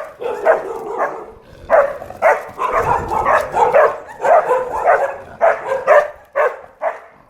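Dogs barking repeatedly: a long run of short, loud barks in quick clusters, thinning out near the end.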